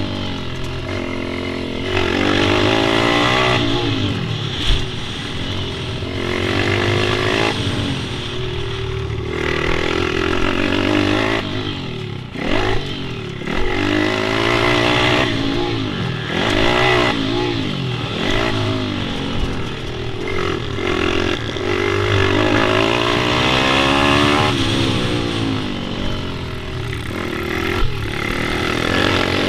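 Pit bike engine riding laps, revving up and easing off again and again, its pitch rising and falling every few seconds.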